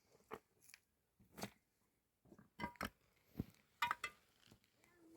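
Irregular light knocks and clicks, about nine over the few seconds, a couple of them with a brief ringing clink.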